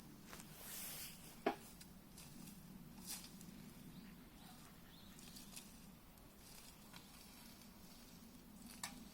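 Wood fire crackling faintly with scattered pops, a sharp one about a second and a half in and another near the end, and a brief hiss just before the first pop.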